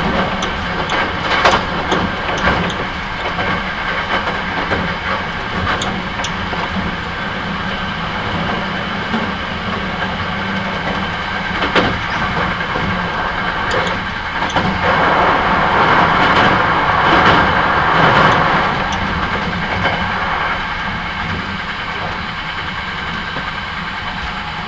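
Hankyu 9300 series electric train running at speed, heard from inside the car: a steady rumble of wheels on rail with occasional sharp clicks. About fifteen seconds in, a louder rush swells for a few seconds and then settles back.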